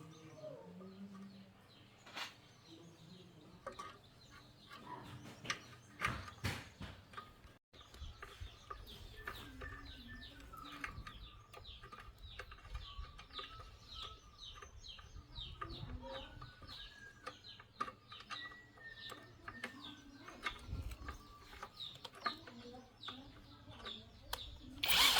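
Small birds chirping rapidly, many short quick chirps a second, with a few sharp knocks in the first several seconds.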